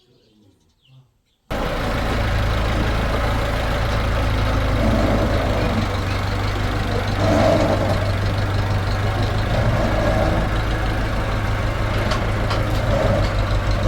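A heavy engine starts being heard abruptly about a second and a half in and runs steadily at a loud level, a low, even drone typical of the tractor and concrete mixer working on a concrete pour.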